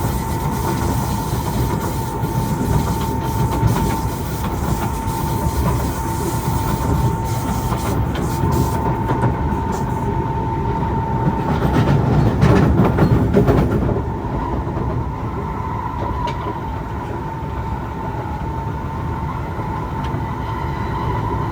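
Kawasaki C151 metro train running between stations: steady wheel-and-rail rumble with a constant tone running through it, swelling louder around two-thirds of the way in, then settling a little quieter.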